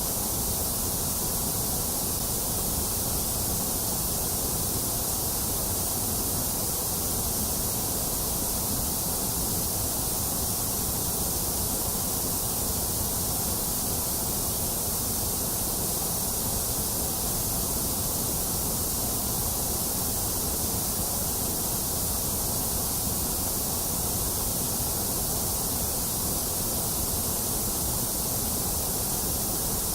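Continuous white noise for soothing an infant: a steady, unchanging hiss that stays the same throughout.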